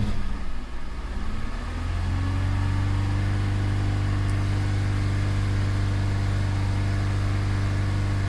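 The 2008 Cadillac SRX's 3.6-litre V6 engine running: its hum rises over the first two seconds, then holds at a steady pitch.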